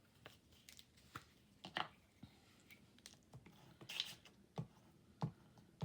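Faint, irregular clicks and taps of small craft supplies being handled and set down on a work table, about a dozen light knocks spread unevenly.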